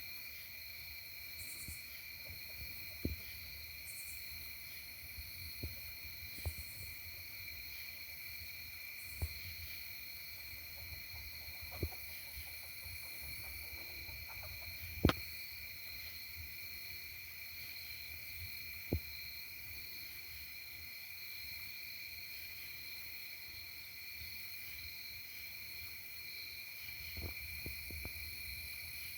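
Insects trilling steadily in two even, high tones, with a handful of soft knocks or taps scattered through, the loudest about halfway.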